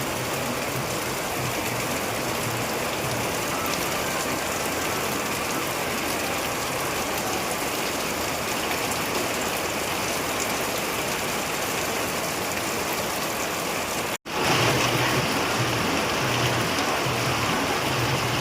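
Heavy rain falling steadily, a dense even hiss of water. About 14 seconds in there is an abrupt cut, and afterwards the rain is a little louder.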